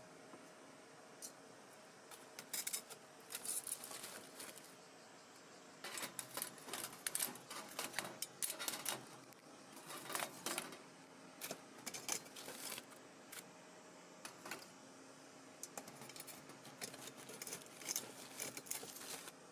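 Light metallic clinks and clatter of camp cookware and utensils being handled, in irregular bursts of short clicks.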